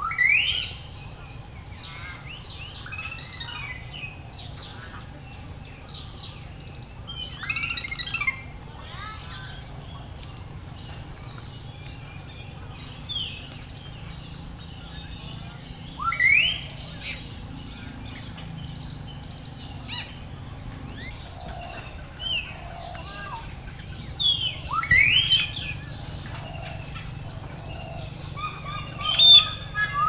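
Several wild birds chirping and calling, with short chirps throughout and a loud, sharply rising call that recurs every several seconds. A steady low hum lies underneath.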